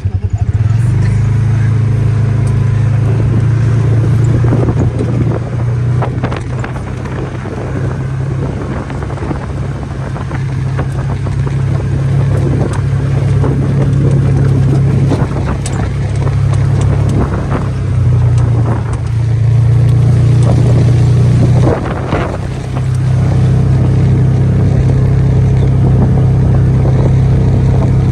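Four-wheel-drive vehicle's engine running steadily while driving, a loud low drone that dips briefly about 22 seconds in, with scattered short knocks and rattles over it.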